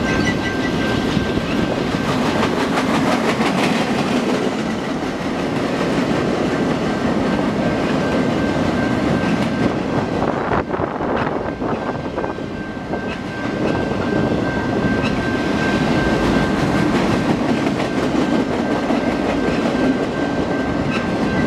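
Freight train flatcars rolling past close by: a steady rumble and clatter of steel wheels over the rails, easing briefly in the middle. A thin, steady high tone runs over it.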